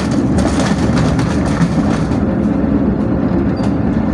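Passenger train coach running at speed: a steady low rumble of wheels on the rails, heard from inside the carriage.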